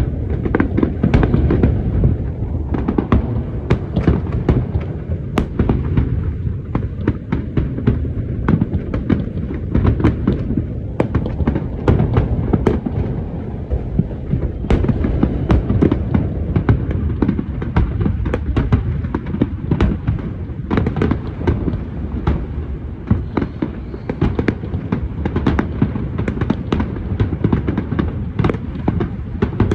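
Large fireworks display firing continuously: rapid bangs and crackles one after another over a steady low rumble of shell bursts.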